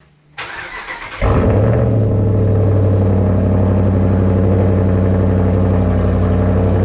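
A 2019 Ram 1500's 5.7-litre HEMI V8, with a Flowmaster Outlaw exhaust and the resonators deleted, cold-started. The starter cranks for under a second, then the engine catches about a second in and settles into a loud, steady idle.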